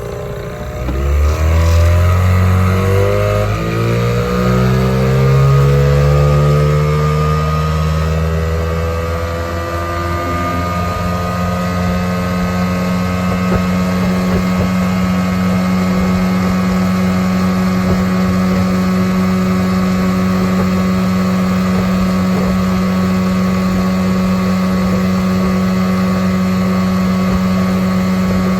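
1993 Johnson 15 hp two-stroke twin outboard opened up: a rising whine for about the first ten seconds as it winds up, then steady running at high revs. The owner feels it doesn't wind up as much as it could on its 12.5-pitch propeller.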